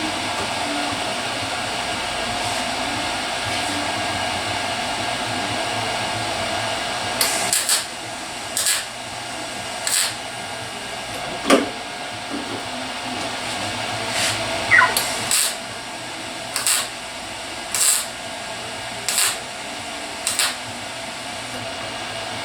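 Steady machine hum with a faint tone, and from about a third of the way in, short hissing bursts repeating about once a second, roughly a dozen times.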